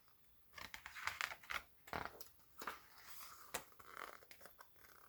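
Paper pages of a picture book being handled and turned: faint rustling and crinkling with scattered clicks, from about half a second in until shortly before the end.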